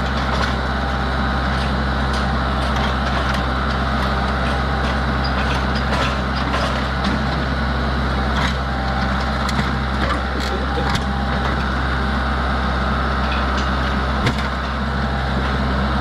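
Tractor engine running steadily at an even low pitch, with scattered clicks, knocks and cracking of parts being broken and pulled loose, and one sharper knock near the end.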